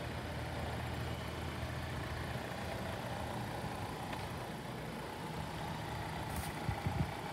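A car engine idling steadily, a low hum, with a couple of soft bumps near the end.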